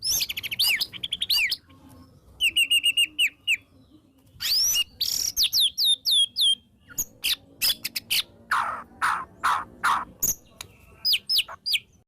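White-rumped shama (murai batu) singing a fast, varied song of sweeping whistled down-slurs, rapid runs of repeated sharp notes and clicks, with lower, rougher notes near the end.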